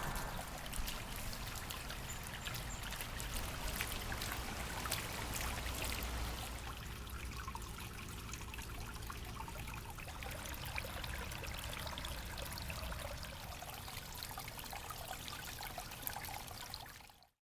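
Water trickling and splashing steadily down a small natural rock waterfall feature, cutting off suddenly near the end.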